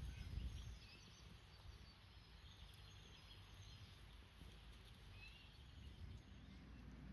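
Faint outdoor ambience: a low rumble dying away in the first second, then quiet with a few faint bird chirps.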